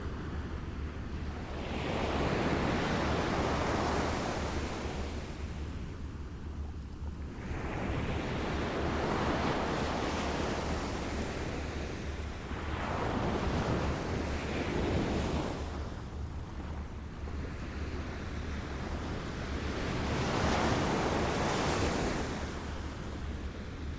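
Small waves lapping on a shore, washing in and ebbing in about four slow surges, one every five to six seconds, over a steady low rumble.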